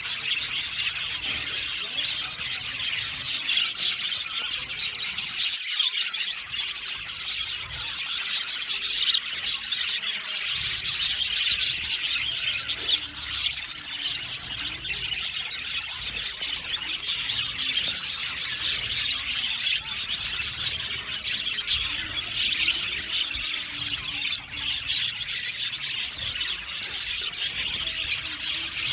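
A flock of budgerigars chattering and chirping nonstop, many birds calling over one another in a dense, high-pitched warble.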